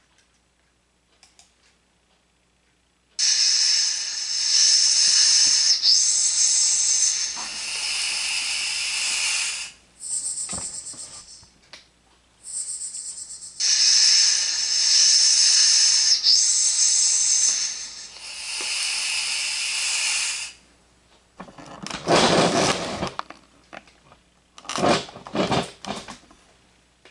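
A man hissing through his teeth like a snake, a drawn-out hiss of several seconds, heard twice in near-identical form. Near the end come two shorter, lower sounds.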